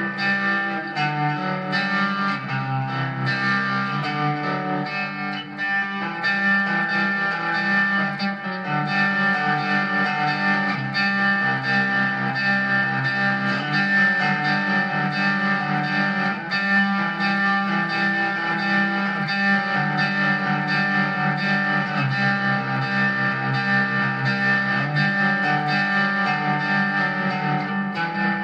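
Squier electric guitar played through an M-VAVE MK-300 multi-effects preset, giving a continuous run of picked notes and chords with effects and some distortion.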